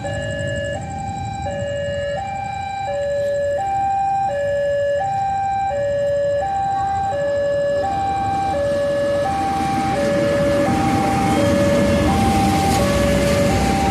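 Electronic two-tone warning alarm of a railway level crossing, alternating steadily between a low and a high note about every three-quarters of a second. A broad rumbling noise grows louder underneath it about ten seconds in.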